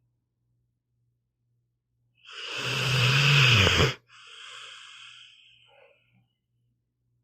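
Pit bull snoring in its sleep: a couple of seconds of silence, then one loud rumbling snore lasting under two seconds that drops in pitch as it ends, followed straight away by a softer, fading breath.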